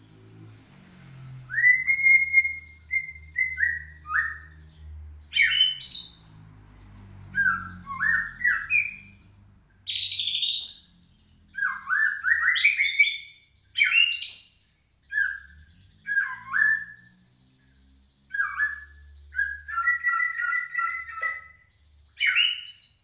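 A bird chirping and calling in short phrases of rising and falling notes, with pauses between them and a longer warbling phrase near the end.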